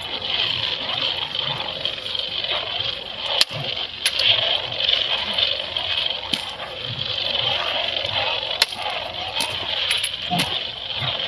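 Steady high hiss of outdoor background noise, with a few sharp clicks scattered through it and faint distant voices.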